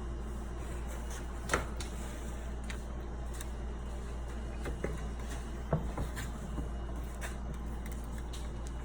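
A few light knocks and clicks from honey frames and tools being handled, the sharpest about one and a half seconds in, over a steady low hum.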